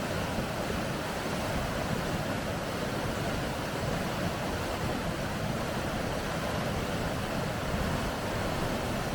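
Rushing water of river rapids: a steady, even rush with no breaks.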